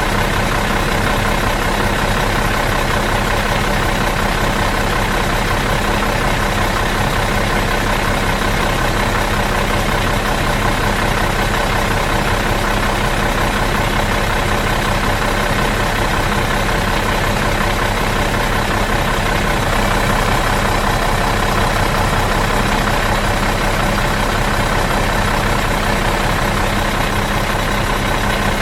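Bus engine idling in neutral, a steady, even running sound that does not change.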